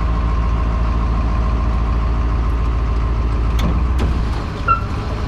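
Rollback truck engine running steadily under hydraulic load as the tilt bed is lowered with a truck on it. The deep hum drops off about four seconds in, followed by a couple of clicks and a sharp knock with a brief squeak as the bed settles.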